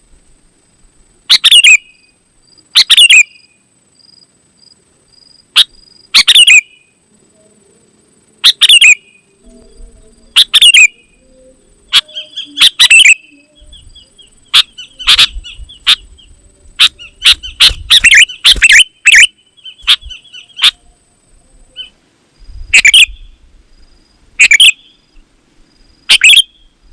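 Sooty-headed bulbul (kutilang) singing loudly in short, sharp phrases about every one and a half seconds, with a quicker run of notes through the middle. A low rumble sits under the song at times.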